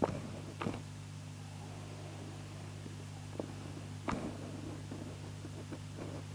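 Steady electrical hum from an Audio-Technica AT-LP1240 turntable setup, a low buzz of several stacked pitches: the hum fault the owner is chasing. A few soft clicks and knocks sound over it, two of them close together at the start and one more about four seconds in.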